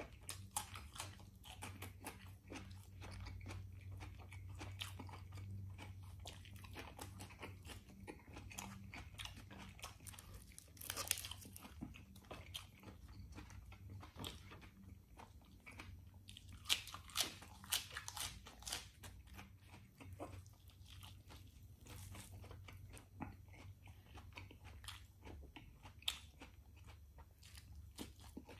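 A person eating rotisserie chicken and cucumber close to the microphone: steady wet chewing and biting with mouth clicks and crunches, a few louder crunches partway through. A steady low hum sits underneath.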